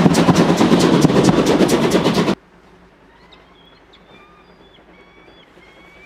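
A narrow-gauge train's coaches roll past close by, a loud rapid clatter that cuts off abruptly a little over two seconds in. After that it is quiet, with small birds chirping in short repeated calls.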